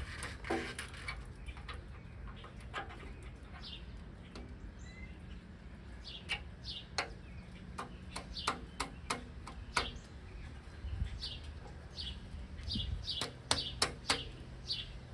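Scattered sharp clicks and taps of metal parts being handled while new timing gears are fitted to a Ford 351 Windsor, with birds chirping in short calls and a steady low hum underneath.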